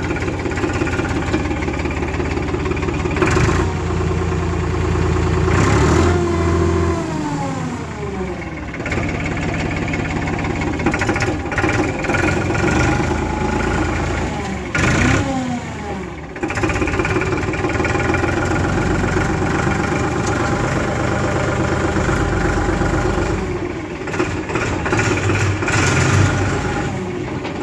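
Vehicle engine running steadily, its revs falling away sharply twice, about six and about fifteen seconds in.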